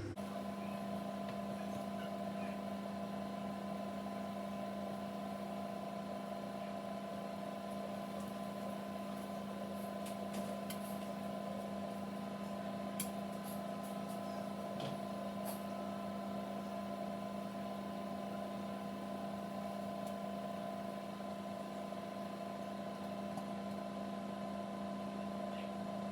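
Microwave oven running, a steady hum with a few faint clicks midway.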